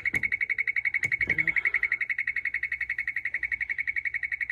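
Electronic buzzer on a machine beeping in a rapid, steady stream of short high-pitched pulses, about a dozen a second. It starts and stops abruptly.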